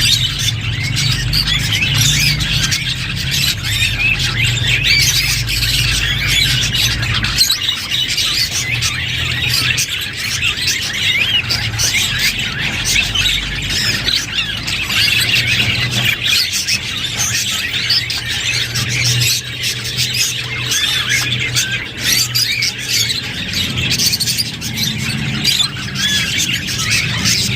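Budgerigars chattering and warbling, a dense, unbroken stream of rapid squawks and chirps, over a low steady hum.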